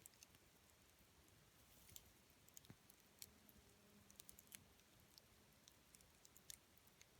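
Campfire burning faintly in the background: scattered sharp pops and snaps of burning wood over a low hiss, with a quicker run of snaps around the middle.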